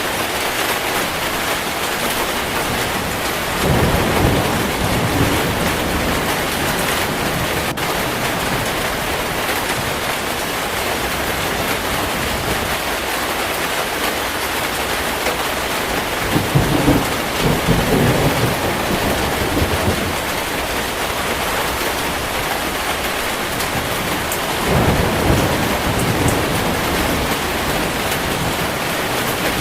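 Heavy rain pouring steadily, with three low rolls of thunder: about four seconds in, midway through, and near the end.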